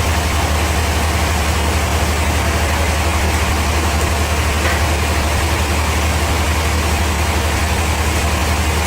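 Bandsaw sawmill machinery running steadily: a continuous low engine drone with an even hiss over it, unchanging throughout.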